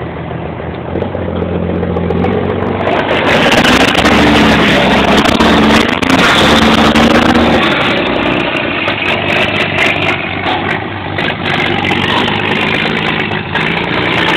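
Engine of a deuce-and-a-half army truck driven hard on a dirt track, growing louder about three seconds in, its pitch rising and falling as it revs and eases off, over a wide rushing noise.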